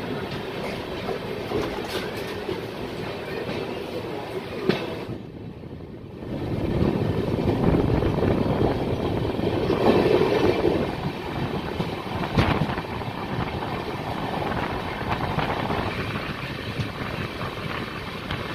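Passenger train coach running on the track, heard through an open door: steady wheel and rail rumble with occasional sharp clicks as the wheels cross rail joints. It dips briefly about five seconds in and then grows louder as the train moves out slowly and begins to pick up speed.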